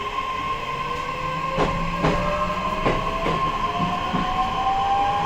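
Traction motors of a JR E131 series electric train whining steadily higher in pitch as the train accelerates, over a steady high hum. The wheels click over rail joints several times.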